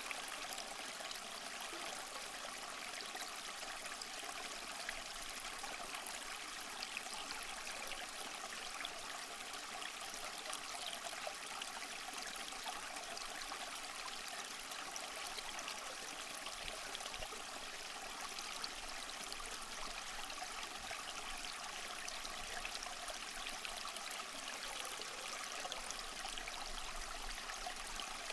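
Small waterfall splashing and trickling steadily over mossy rocks: a constant bright rush of water with fine splashy detail.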